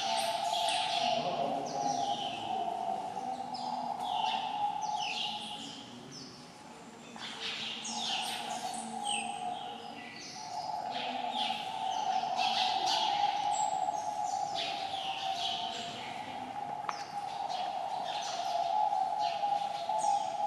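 Birds chirping busily, with many short, falling chirps and calls close together, over a steady droning hum.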